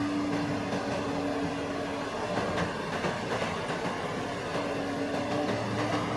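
Kubota rice harvester running steadily, a constant engine hum under a light mechanical clatter.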